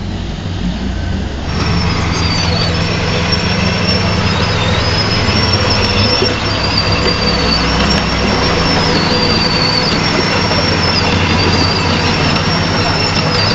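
Heavy construction machine's diesel engine running steadily. About a second and a half in it gets louder, and a high thin whine joins it, stepping up and down between two pitches.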